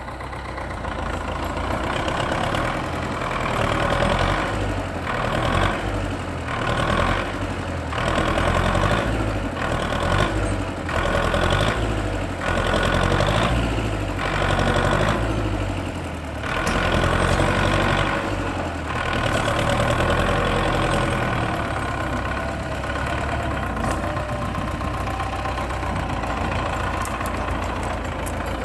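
MTZ (Belarus) tractor's diesel engine running under varying load, surging and dropping about once a second for a stretch, then settling to a steadier run over the last several seconds.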